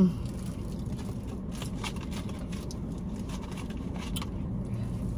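Steady low hum of a car idling, heard inside the cabin, with faint clicks of a spoon and soft eating sounds scattered through it.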